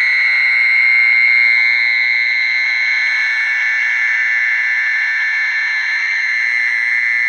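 Mole cricket calling song played from a lure speaker: a loud, steady, high-pitched trill that does not change, used to draw mole crickets in to land.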